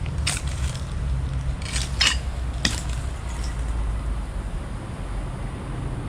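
A few short, sharp clicks and scrapes of hard objects in the first three seconds, over a steady low rumble.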